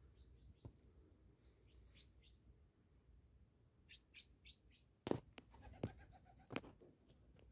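Faint bird chirps in short quick runs, with three sharp clicks in the second half that are louder than the chirps.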